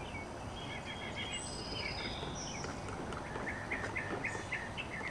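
Birds calling over a steady background hiss: a few high chirps and whistles, then a run of short repeated notes, about four a second, in the last second and a half.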